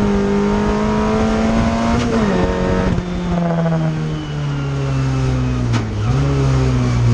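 Fiat 600 folkrace car's engine heard from inside its cabin, running at a steady high pitch, then dropping about two seconds in and winding down slowly as the revs fall, before picking up a little near the end. A short sharp knock sounds about two seconds in and another near the end.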